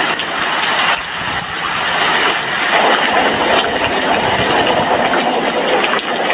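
Steady rain falling outside an apartment window, a dense continuous hiss. A low rumble swells from about two seconds in and fades near the end.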